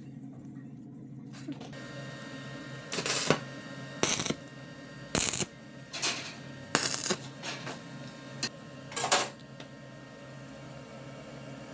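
A steady machine hum with about six short, sharp bursts of metallic clatter or scraping between about three and nine seconds in.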